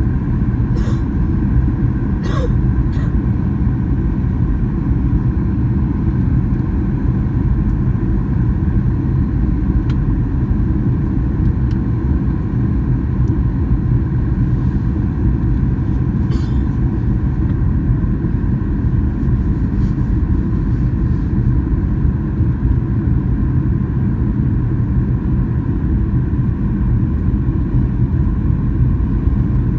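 Jet airliner cabin noise: the steady, even rumble of the engines and airflow in flight.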